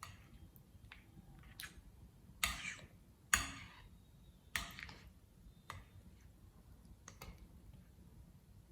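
Slime being pressed and worked by hand, giving a string of sharp sticky pops and clicks, the three loudest in the middle each with a short crackle after it.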